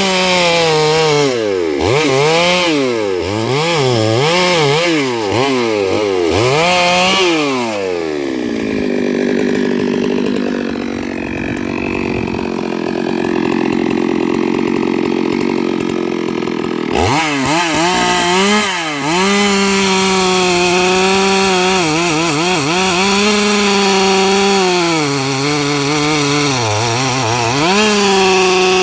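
Stihl MS 382 two-stroke chainsaw ripping eucalyptus logs lengthwise, its engine pitch swinging up and down quickly as the chain bogs and frees in the cut. After about eight seconds it runs steadier and lower for about nine seconds, then cuts under load again with repeated dips in pitch.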